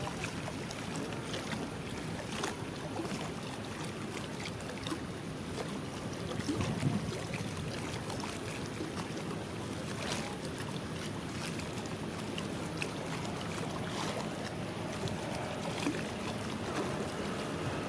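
Steady outdoor rumble of engines with wind noise on the microphone, a few faint clicks, and a brief swell about seven seconds in.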